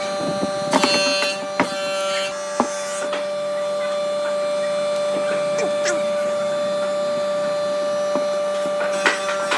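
A woodworking machine's electric motor running with a steady hum. Occasional wooden knocks and brief scraping bursts sound over it: a bout about a second in, another around two seconds in, and one near the end.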